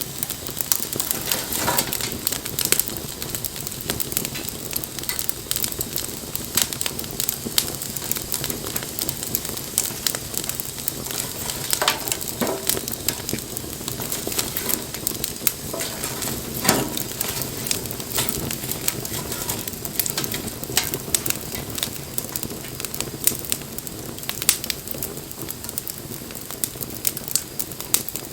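Wood fire burning, crackling steadily with frequent sharp pops over a soft hiss, a few louder pops standing out.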